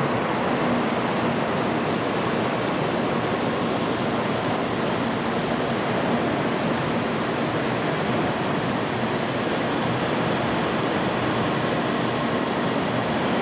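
N700 series Shinkansen train rolling slowly along the platform as it pulls in, a steady rushing rumble of wheels and running gear with a faint hum. A brief high hiss rises over it about eight seconds in.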